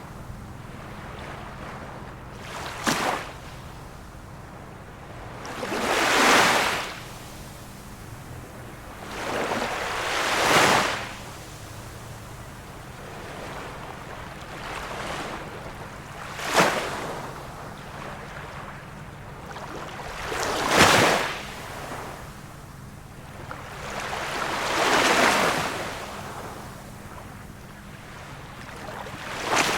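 Small waves of a calm sea washing in one after another, a surge of water about every four seconds, some ending in a sharp splash. A faint steady low hum runs underneath.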